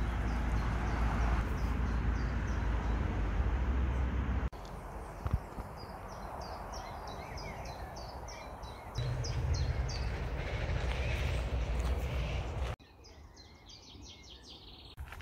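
Songbird singing a quick run of repeated high notes, with more chirping near the end. Wind buffets the microphone with a low rumble for the first few seconds and again partway through.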